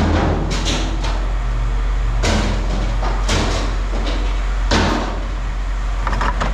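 Pieces of scrap metal being tossed into a truck's bed, landing with five or six sharp metallic clanks over a steady low hum.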